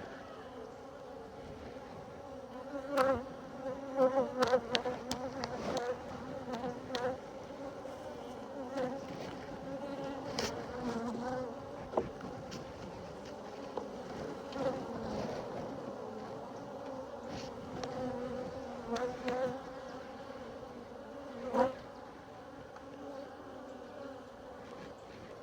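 Honeybees buzzing in a steady, droning swarm hum around an opened hive. A few sharp knocks and scrapes stand out over it, loudest a few seconds in and again near the end.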